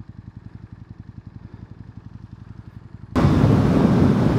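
KTM 1290 Super Duke R's V-twin idling with an even, lumpy pulse, then about three seconds in the throttle opens and the bike pulls away hard, engine and rushing wind suddenly loud.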